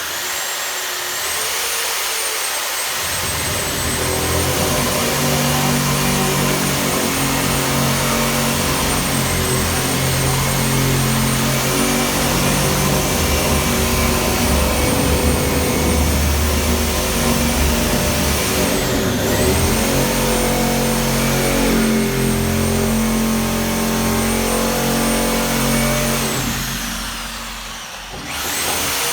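Electric power tool motor running steadily with a high whine, dipping briefly about two-thirds of the way in, winding down near the end and starting up again.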